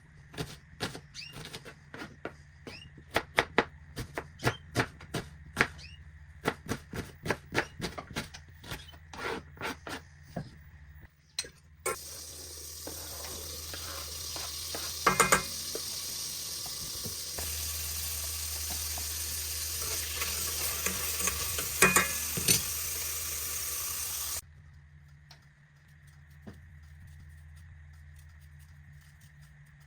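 Knife chopping on a cutting board in quick, regular strokes. About twelve seconds in, food starts sizzling loudly in hot oil, with two ringing clanks of a metal utensil against the pan. The sizzling cuts off suddenly near the end, leaving a low steady hum.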